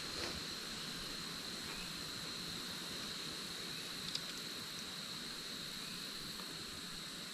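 Insects, such as crickets, singing a steady, unbroken high trill, with one faint click about four seconds in.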